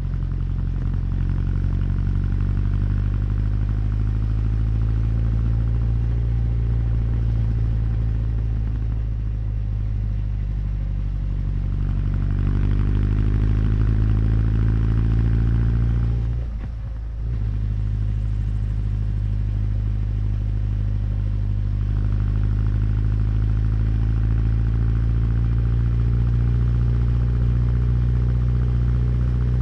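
Honda CB1100's air-cooled inline-four engine and exhaust running under way. It runs steadily, pulls harder and louder from about twelve seconds in, drops away briefly about four seconds later as the throttle closes, then settles back to steady running.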